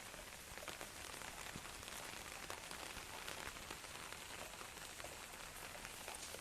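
Steady heavy rain falling, with many small drops ticking on surfaces.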